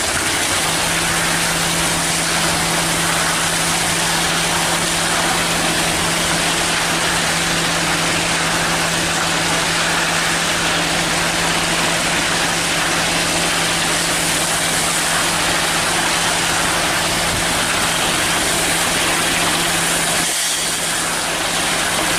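Hino cement mixer truck running steadily: a constant low hum over a rushing noise, which dips briefly about twenty seconds in.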